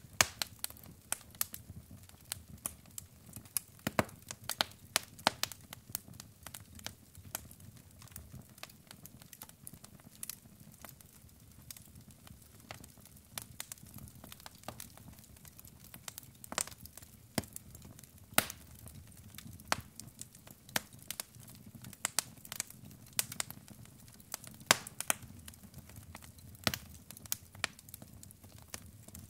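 Log fire burning in a fireplace: irregular sharp crackles and pops from the burning wood, sometimes several close together, over a steady low rumble of the flames.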